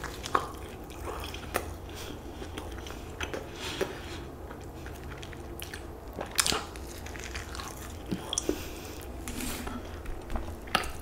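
Close-miked chewing and biting of a fried chicken sandwich on a soft brioche bun, with scattered sharp mouth clicks and crunches from the breaded patty.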